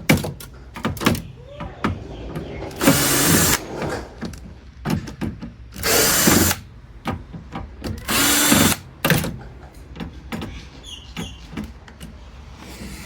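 Power drill-driver backing out screws from a hot water heater's sheet-metal casing. It runs in three short whirring bursts of about a second each, with clicks and knocks of the bit, screws and metal in between.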